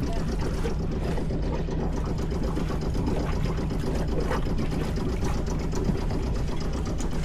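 Sailboat's inboard engine idling steadily.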